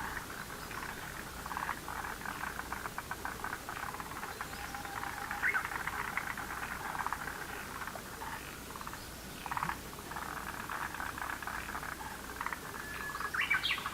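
A chorus of many frogs calling at once: overlapping trains of rapid clicking, rattling calls, with a few short rising chirps near the end.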